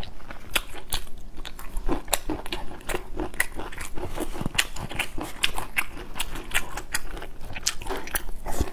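Close-miked eating: crisp, crunchy chewing and biting into a crusted, mushroom-shaped bun, with many sharp, irregular crackles.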